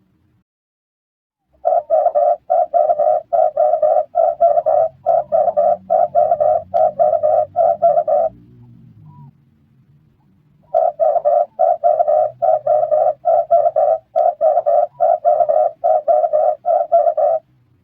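Red collared dove cooing: two runs of quick, evenly spaced coos, about two to three a second, each run lasting some six seconds, with a pause of a few seconds between them.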